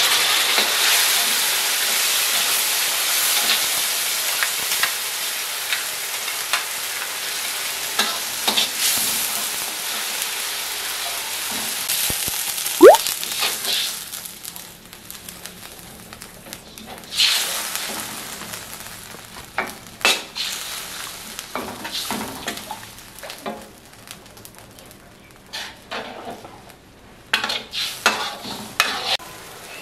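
Mie Aceh spice paste sizzling in hot oil in a steel wok as a metal spatula stirs it. The sizzle dies down about halfway through, when water goes in, leaving quieter bubbling with intermittent scrapes and knocks of the spatula on the wok.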